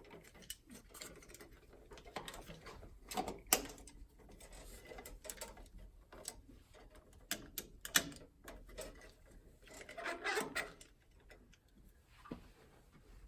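Electrical wires being folded and a receptacle pushed back into its electrical box by hand: scattered clicks, scrapes and knocks, the sharpest about three and a half and eight seconds in.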